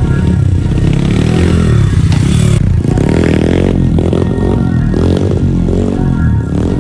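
Pit bike engine revving up and down over wheelie runs, under background music.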